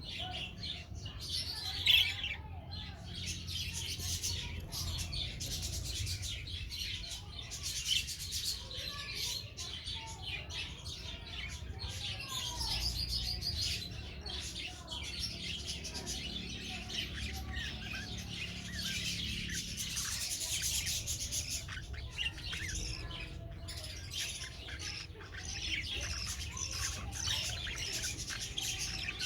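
Young budgerigars chattering, a continuous stream of high chirps and warbles, with one sharp louder call about two seconds in.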